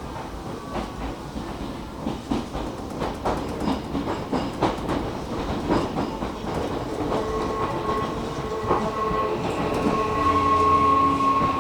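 Hakone Tozan Railway electric train running, its wheels clicking rapidly over the rail joints. From about seven seconds in, a steady whine joins the clicking and grows louder toward the end.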